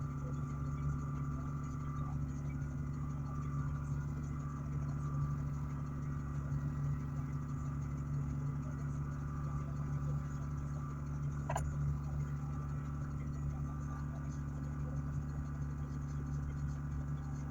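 Dual-head air-suspension compressor running steadily, pumping the air tank up toward 200 PSI, with a single brief click about two thirds of the way through.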